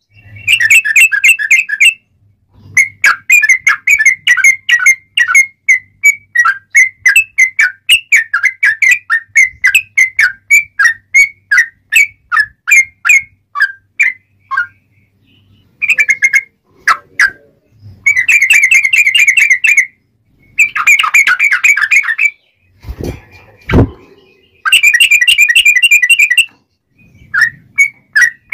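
Yellow-vented bulbul (trucuk) singing in loud, rapid series of clear whistled notes. It goes in bursts of quick repeated phrases with short pauses between them. A couple of dull knocks come about two-thirds of the way through.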